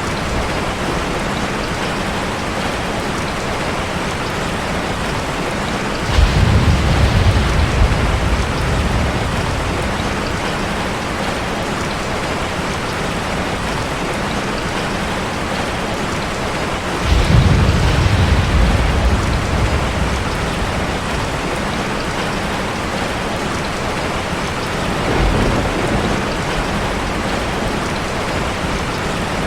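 Heavy rain falling steadily, with a roll of thunder about six seconds in, another a little past the middle, and a fainter rumble near the end.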